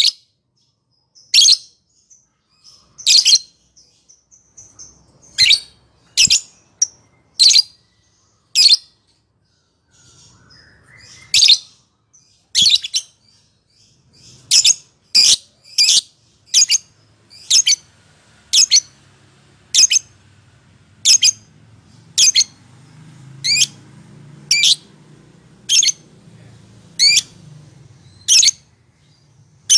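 Lovebird giving short, sharp, high-pitched chirps, spaced unevenly at first and then repeating about once a second.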